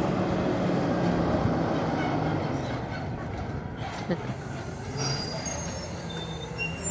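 Front-loading garbage truck's diesel engine running as it pulls up to the dumpster, with high-pitched squeals starting about five seconds in, typical of the brakes as it slows.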